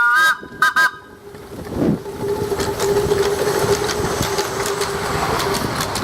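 Miniature steam locomotive's chime whistle: the end of a blast of several tones sounding together, then two short toots about a second in. It is followed by the steady noise of the train running, with clicks.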